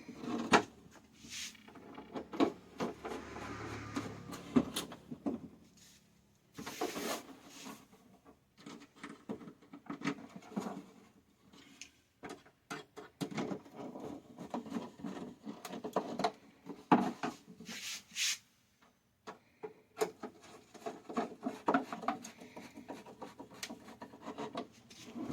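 Irregular rubbing, scraping and small clicks and knocks from a repaired TV set being handled and fitted back together, with short pauses between bouts.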